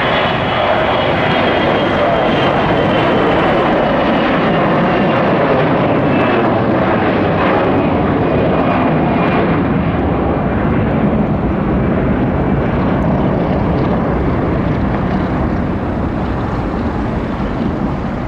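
Jet aircraft taking off, its engines running loud and steady with a high whine that slowly falls in pitch as it passes.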